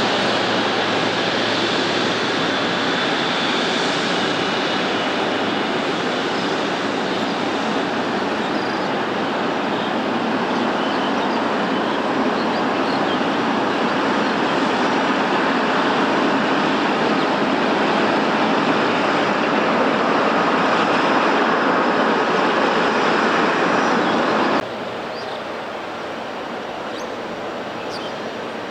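Widebody jet airliner's engines running at high power: a loud, steady rush of noise with a faint high whine, swelling slightly, that cuts off abruptly about 25 seconds in, leaving a quieter outdoor background.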